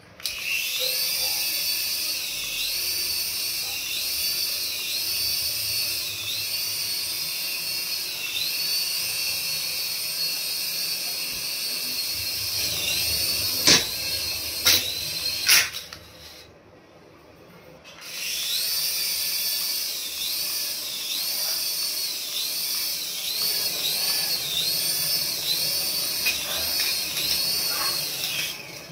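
Small electric motor of a remote-control toy whining in repeated pulses, each one spinning up in pitch and dropping away, about once a second and quicker toward the end. There are a few sharp clicks a little past the middle, then a two-second stop before it starts again.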